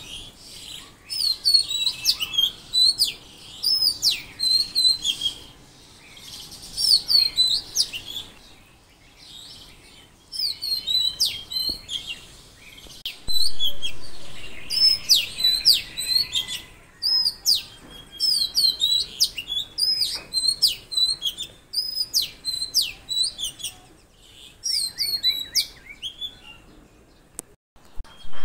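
Songbirds chirping and singing in quick runs of short, high, sliding notes, with brief pauses between phrases.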